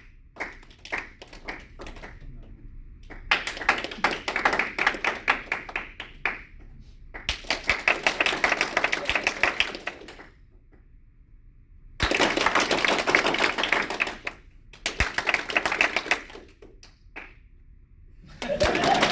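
Audience clapping in several separate rounds of about two to three seconds each, with short lulls between them and a few scattered claps at the start: a vote by applause on which performer leaves the scene.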